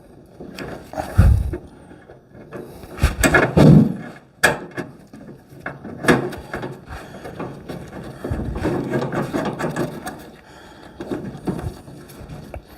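Irregular metal clunks, clicks and knocks as a car hood is lifted and shifted on its hinges while bolts are lined up and put in.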